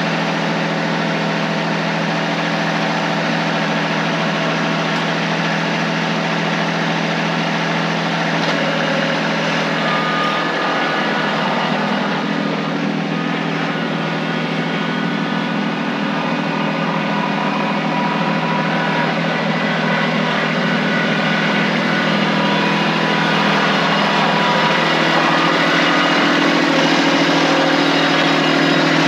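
Kubota tractor engine running steadily. Its note shifts about a third of the way through, then rises in pitch and grows louder near the end as the throttle comes up.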